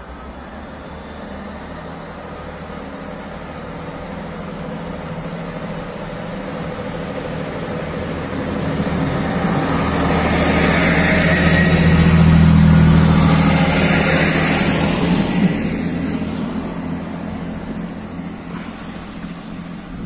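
Class 175 diesel multiple unit running along the platform close by: engine rumble and wheel noise build to a peak about twelve seconds in, then fade away.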